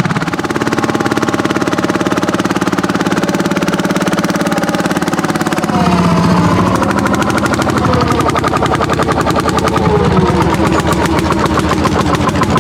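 Landini hot-bulb tractors' single-cylinder two-stroke engines running hard, a rapid, evenly pulsing beat of firing strokes. About six seconds in, the sound changes abruptly to a louder engine note whose pitch falls briefly.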